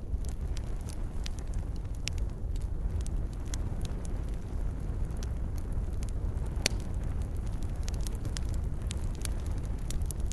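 Wood fire burning in a fireplace: a steady low rumble of flames with scattered sharp crackles and pops, a louder pop about two-thirds of the way in.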